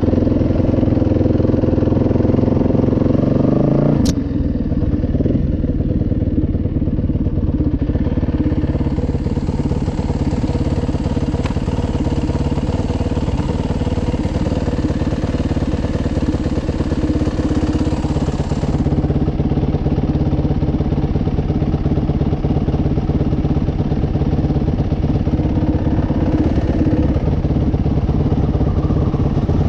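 Dirt bike engine running steadily while riding. About four seconds in there is a sharp click, and after it the engine note steps down lower and holds.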